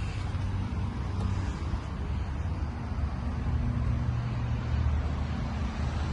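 Scania R450 truck's diesel engine idling steadily.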